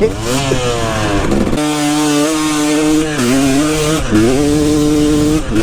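KTM 250 SX single-cylinder two-stroke dirt bike engine running hard on a motocross track; the pitch falls over the first second and a half, then holds steady at high revs with two brief dips in revs.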